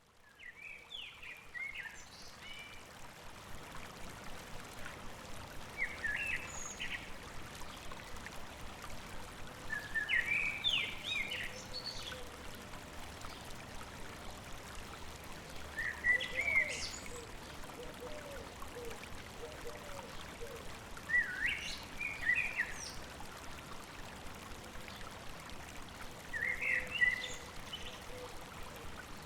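A songbird repeating a short warbled song phrase about every five seconds, six times, over the steady babbling of a stream.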